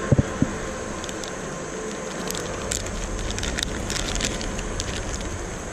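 Handling noise from re-rigging a soft plastic worm: two soft knocks at the start, then scattered small clicks and crackles over a steady outdoor hiss.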